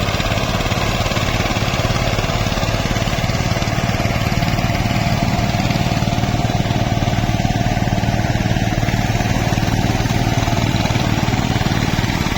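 Tractor diesel engine running steadily under load while puddling a flooded paddy field.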